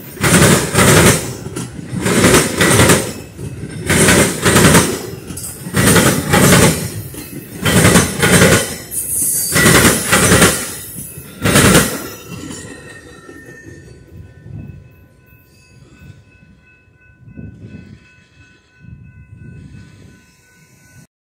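Metra bilevel commuter train passing close by, its wheels clattering in loud pulses about once a second until the last car clears about twelve seconds in. After that the noise dies away, leaving the steady ringing of a railroad crossing bell.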